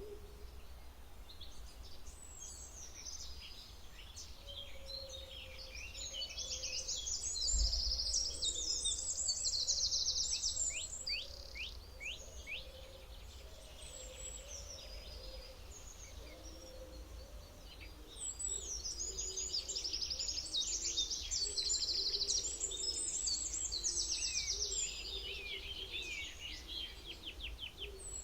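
Songbirds singing in two long bouts of fast trills and chirps, each lasting several seconds, with a fainter low call running beneath and a steady low background hum of the outdoors.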